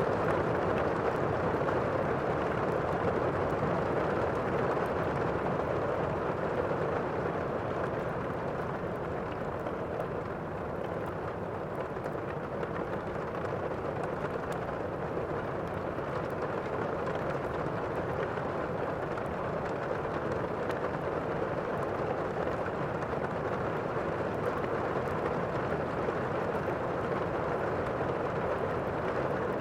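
Thunderstorm-and-fireplace ambience: a steady, even rush of rain with faint crackling.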